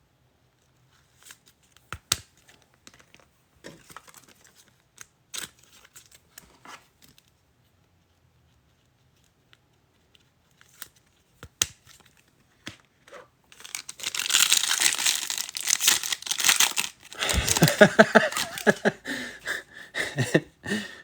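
Scattered light clicks of trading cards being handled. About fourteen seconds in, a card pack's wrapper is ripped open with loud crinkling and tearing that runs on to the end.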